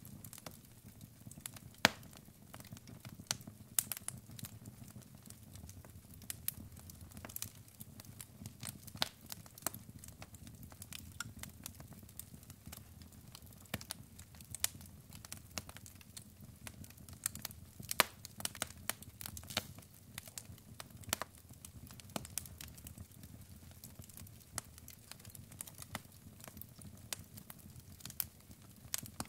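Wood fire crackling: irregular sharp pops and snaps from burning logs over a soft low rumble of flame.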